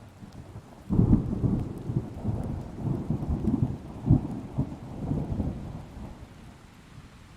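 Thunder: a sudden crack about a second in, then a low rolling rumble that swells and pulses several times before fading away, over steady rain.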